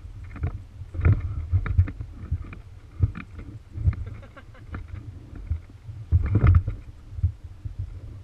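Irregular low bumps and short crackling rustles, about one or two a second, from someone moving on foot through brush while carrying the camera, with handling knocks on the microphone.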